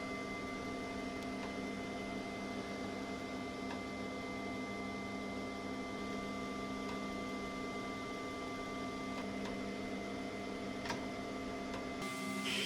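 Machine-tool motor running steadily, a hum with several fixed tones. Near the end the sound changes: the highest tone stops and a hiss comes in.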